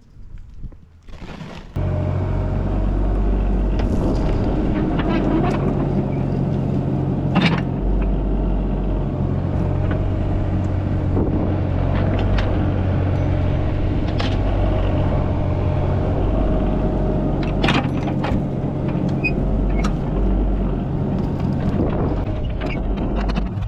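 Heavy-equipment diesel engine running steadily, cutting in suddenly about two seconds in. Its pitch shifts slightly a few times. A few sharp metallic clanks ring out over it.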